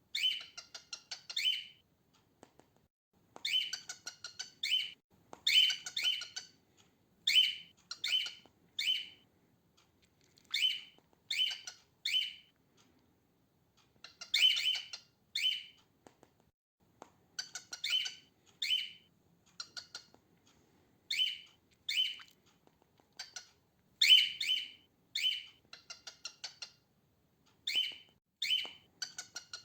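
Female cockatiel calling: short chirps in quick clusters of two to four, repeated with pauses of a second or so.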